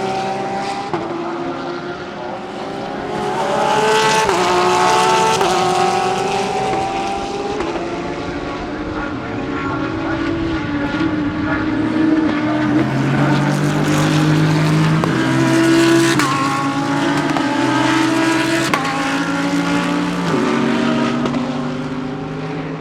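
Several GT3 race cars driving past at racing speed, their engine notes overlapping, each climbing and then dropping with gear changes.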